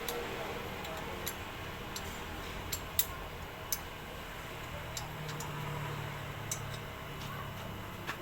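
Scattered sharp metallic clicks and taps, roughly one a second at irregular spacing, consistent with tools and engine parts being handled during a motorcycle engine overhaul. A faint low hum rises in the middle and fades.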